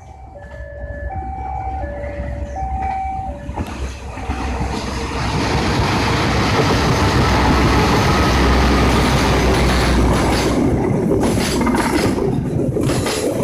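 Train passing close by: a loud rumble and rattle of the locomotive and carriages builds from a few seconds in, with knocks of the wheels over rail joints near the end. In the first seconds there are faint alternating two-pitch signal tones.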